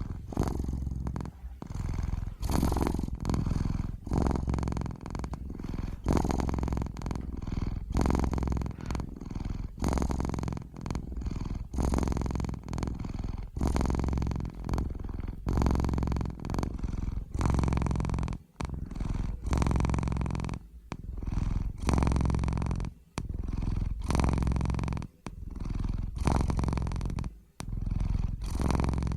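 Domestic cat purring close up, a low rumbling purr that swells and fades with each breath, roughly once every two seconds.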